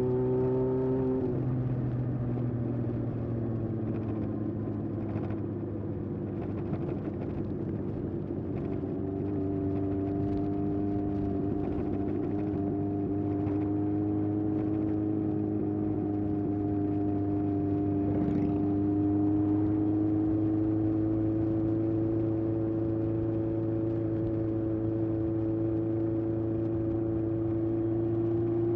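A 1981 Honda CB750F's air-cooled inline-four running through its period Yoshimura exhaust while riding. The engine note drops sharply about a second in, then settles into a steady cruising note from about nine seconds on, rising slightly near the end.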